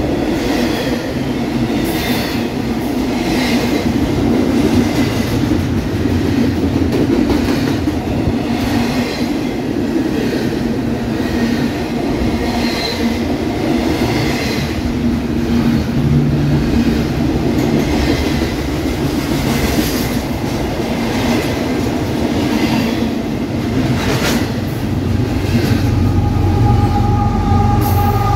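Double-stack container freight train rolling past close by: a steady rumble of steel wheels on rail, with recurring clicks as the wheels cross rail joints. Near the end, mid-train diesel locomotives come past, adding a deep engine rumble and a steady whine.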